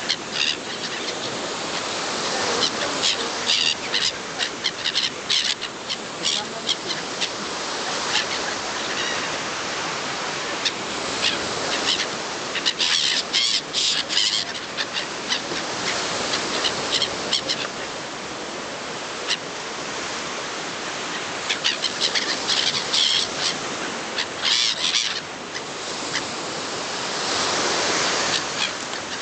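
A flock of birds calling in many short, high chirps, thickest in a few bursts, over a steady rushing noise.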